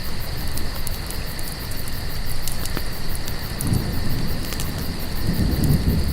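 Crickets trilling steadily over a crackling campfire, with a low rumble that swells twice in the second half.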